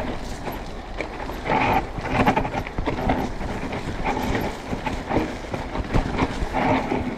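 Mountain bike rolling over a rough dirt trail: tyre noise with constant rattling and knocks from the bike over bumps.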